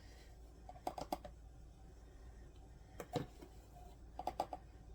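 Faint light clicks and taps in three short clusters, about a second in, about three seconds in and near the end, from measuring spoons and spice containers being handled while spices are measured out.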